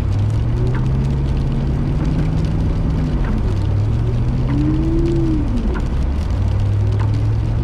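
Car engine running and revving inside the cabin, its pitch rising and falling several times, with a higher whine that rises and falls about five seconds in, as the car struggles for grip on a slippery hill.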